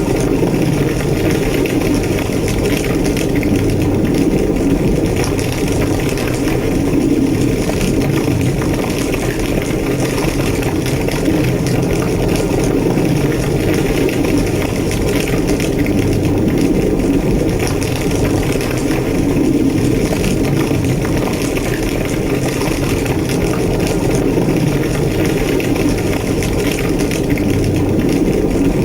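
Large fire burning with a steady, deep roar and light crackling throughout.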